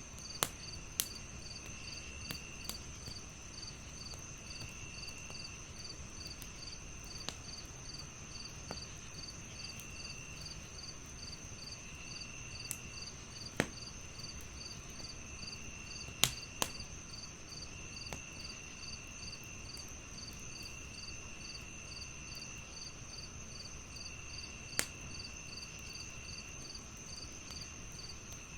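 Crickets chirping in several overlapping patterns: a steady high trill, a regular pulse of about two chirps a second, and lower trills that come and go about a second at a time. A wood fire crackles over them, with a few scattered sharp pops.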